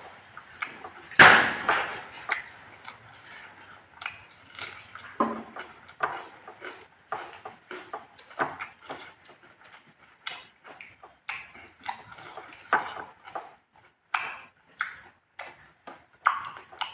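Close-up eating sounds: irregular wet chewing and lip-smacking clicks, with one louder sharp knock about a second in.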